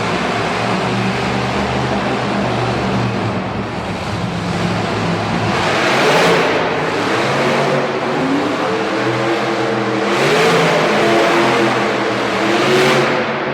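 Monster truck engines running and revving, their pitch rising and falling, with three surges of louder noise about halfway through, near two-thirds and near the end.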